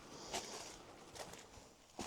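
Faint scuffs and rustles of a person clambering down on foot over rock and scrub, with the clearest scrape about a third of a second in.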